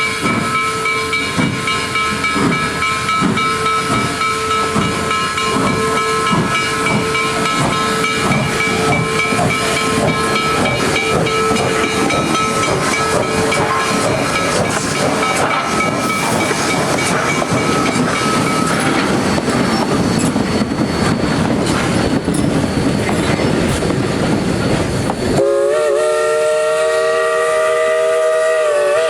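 Steam locomotive 2-8-0 #734 working along with rhythmic exhaust chuffs and steam hiss. About 25 seconds in, its B&O three-chime whistle begins blowing a chord and holds to the end.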